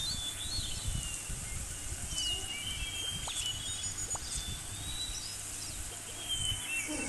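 Birds chirping and whistling in short high calls and quick pitch sweeps, over a steady low rumble of outdoor ambience.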